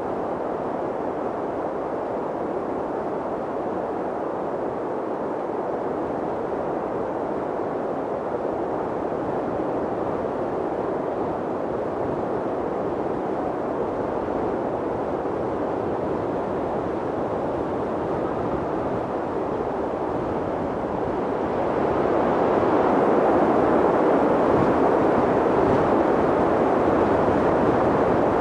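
Mountain wind blowing steadily, a deep rushing noise that swells louder about 22 seconds in.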